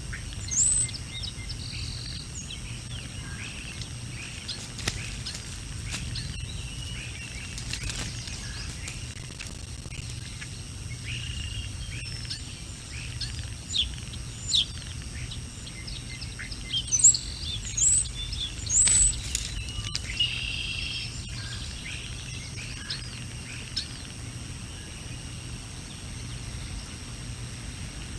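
Birds chirping and calling in short, scattered notes, busiest and loudest a little past the middle, over a steady low rumble.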